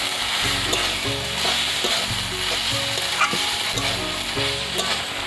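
Chopped water-lily stems frying in hot oil in a metal kadai, sizzling steadily while a metal spatula stirs and scrapes them around the pan.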